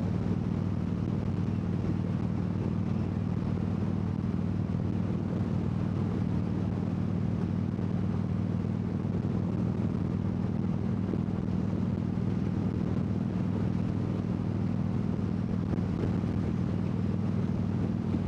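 Harley-Davidson motorcycle's V-twin engine running at a steady cruising speed, its pitch unchanging, with wind and road noise held down by a furry windscreen on the microphone.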